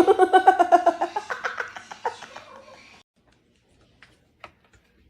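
A person laughing hard: a fast, high-pitched run of "ha-ha-ha" that trails off about two seconds in, followed by quiet with a couple of faint clicks.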